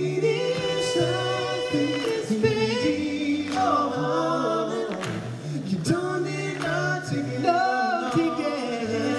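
Male vocal quartet singing close harmony, holding and shifting chords together over a low bass voice.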